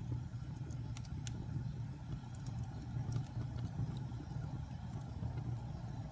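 Wood fire burning: a steady low rumble of flames with scattered sharp crackles and pops, a couple in quick succession about a second in.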